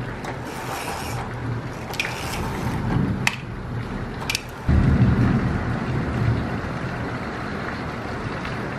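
Rain falling, a steady hiss, with a few sharp clicks in the first half and a deeper rumble that comes in about five seconds in.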